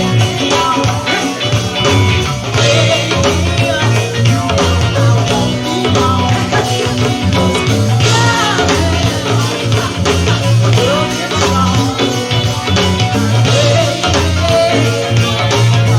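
Live go-go band playing, with a strong bass beat, guitar and a singing voice.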